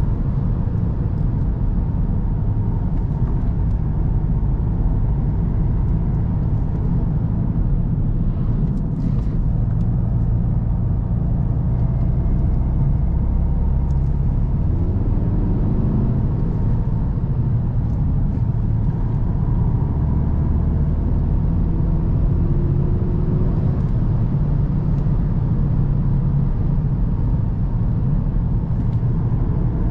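VW Golf GTD's 2.0 TDI four-cylinder diesel engine running while driving, a steady low drone with tyre and road rumble.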